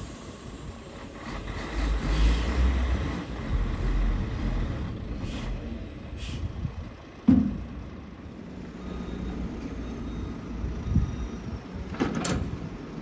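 Heavy diesel vehicle engines running with a low rumble that swells for a couple of seconds, then a single sharp bang about seven seconds in and a shorter burst of noise near the end.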